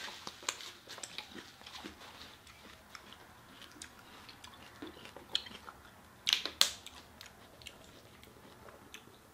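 Close-up eating sounds: chewing, lip smacks and finger-licking, made up of many small wet mouth clicks. Two louder sharp crackles come about six seconds in.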